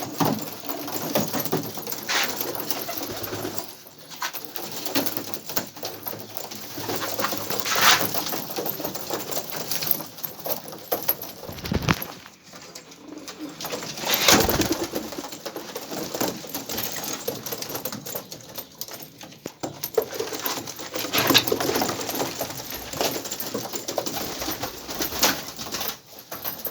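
Domestic pigeons cooing and moving about in an enclosed space, with a few louder sudden sounds at intervals.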